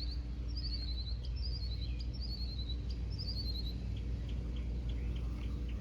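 A small songbird singing: short runs of quick notes that fall in pitch, about five phrases in the first four seconds, over a steady low hum.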